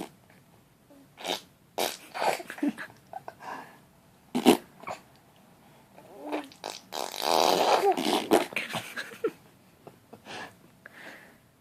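A four-month-old baby blowing raspberries, buzzing her lips to make fart noises. The sound comes in several short bursts, with a longer buzz about seven seconds in.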